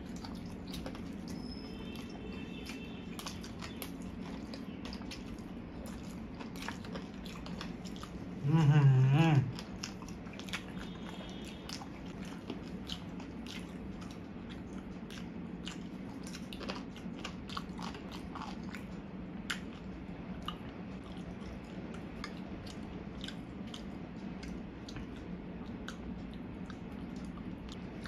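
Two people chewing and biting into saucy fried chicken, with many small wet mouth clicks over a steady low hum. About nine seconds in comes a brief, loud vocal sound lasting about a second.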